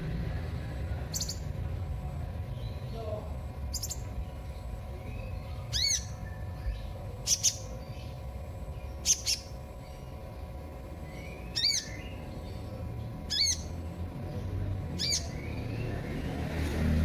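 A sunbird (the 'kolibri' of Indonesian bird-keepers) giving about eight short, high chirps, each a quick rising-and-falling sweep, spaced a second or two apart. A steady low rumble runs underneath.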